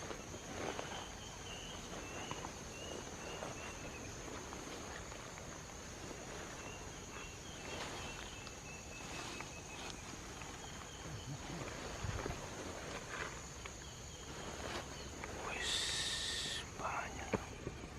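Steady high drone of insects such as cicadas or crickets, with rustling steps through undergrowth and faint rows of chirps. Near the end comes one loud, harsh sound lasting about a second.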